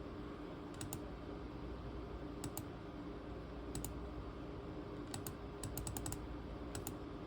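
Keys on a ThinkPad T23 laptop's keyboard clicking, mostly in quick pairs, a dozen or so scattered at irregular intervals. A faint steady hum runs underneath.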